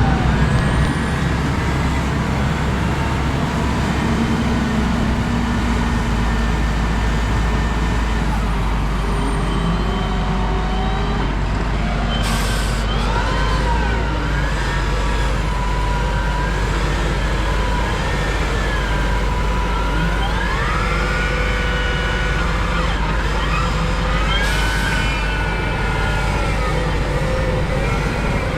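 Heavy farm machinery working in the field, most likely a tractor: a steady, loud engine rumble with whining tones that rise and fall as the load and revs change.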